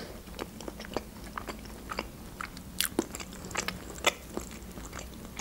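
Close-up mouth sounds of someone chewing a soft, creamy mushroom julienne: irregular small clicks and smacks, several a second.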